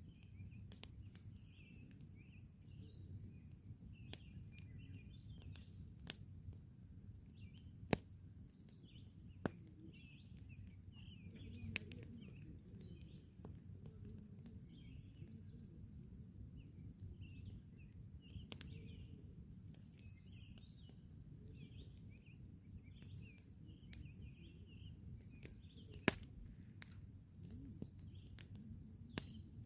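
Wood campfire crackling, with scattered sharp pops, the loudest about eight seconds in and again late on, over a low steady rumble. Small birds chirp repeatedly throughout.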